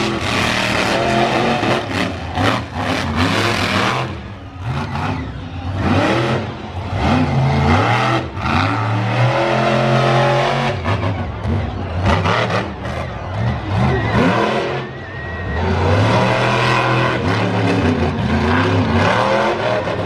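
Monster truck engine revving hard, its pitch rising and falling again and again as the throttle is worked.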